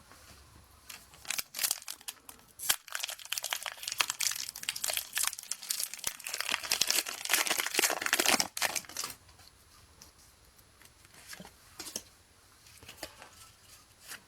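Foil wrapper of a Pokémon TCG booster pack being torn open and crinkled in the hands: a dense run of crackling for about eight seconds, then a few quieter rustles.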